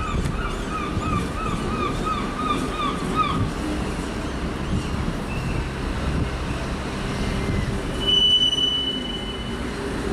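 Train wheels squealing over the low rumble of rolling railcars: a run of short rising-and-falling squeals, about three a second, for the first few seconds, then one steady high squeal about eight seconds in.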